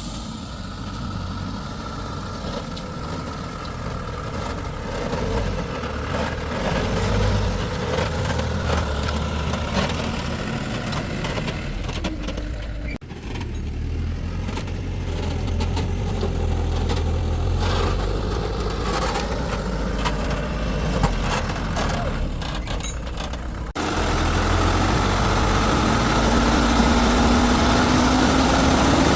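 A heavy vehicle's engine running steadily at low revs, broken by a couple of abrupt cuts; in the last few seconds a tone rises slowly as the engine picks up a little.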